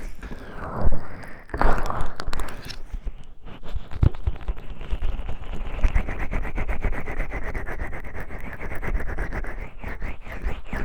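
Oiled hands massaging the ears of a 3Dio binaural microphone: a few long swishing strokes, then from about three seconds in a fast run of slick, crackly wet rubbing.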